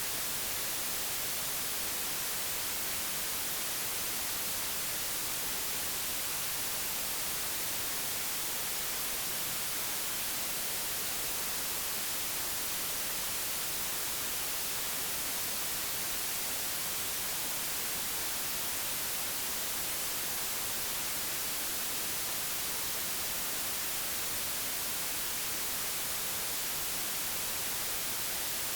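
Steady, unchanging digitally generated white noise: an even hiss, brightest in the treble.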